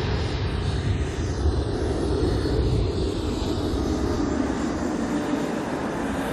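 Military jet aircraft engine noise: a steady, loud rush with a low rumble underneath.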